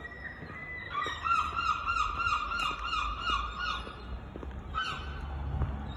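A gull calling: a run of repeated loud cries, about three a second, lasting about three seconds, then a single short call near the end.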